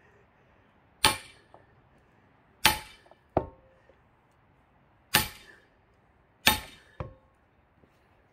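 Heavy metal strikes driving an axe into a pine log to split it. There are four hard blows, each with a short metallic ring, and after two of them a lighter follow-up hit.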